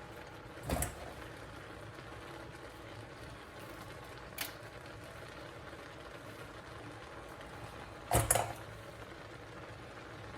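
Food cooking in a pan with a steady low hiss. There is a knock about a second in, a faint click midway, and a louder double clatter near the end, like kitchen utensils against the pan.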